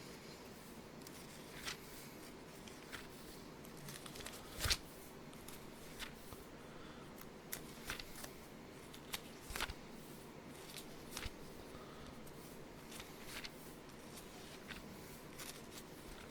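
Scattered, irregular light clicks and taps over a faint steady background hum, with two louder knocks about five and ten seconds in.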